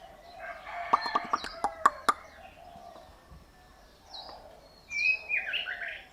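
A songbird singing a short whistled phrase that slides down in pitch, near the end. About a second in comes a quick run of sharp clicks and chips, the loudest sound.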